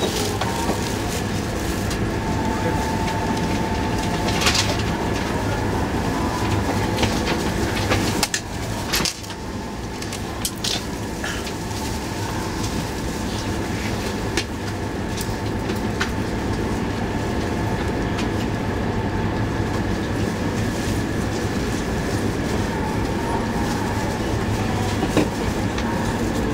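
Steady rumble and hum of an E2 series Shinkansen train running, heard inside the passenger car, with faint steady whine tones and scattered short clicks.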